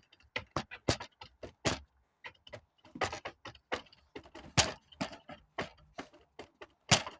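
Small plastic toys clicking and knocking together in quick, irregular taps as they are handled and shaken, with a louder knock near the end.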